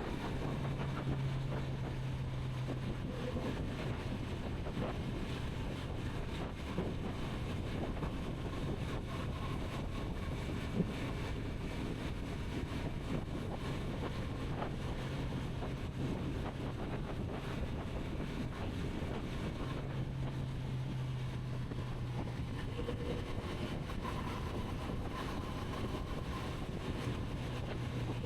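Kawasaki Z900RS inline-four engine running at a steady cruise, its low note swelling and easing a little now and then, under a constant rush of wind on the microphone. There is one brief click a little after ten seconds in.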